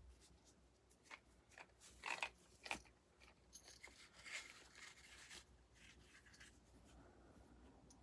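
Faint handling noises: a few sharp clicks about two to three seconds in, then a short crinkly rustle.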